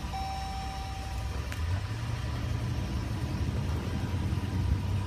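2015 Dodge Durango Limited's engine starting and settling into a steady idle. A steady electronic dashboard tone stops about a second in, followed by a short click, and then the engine runs.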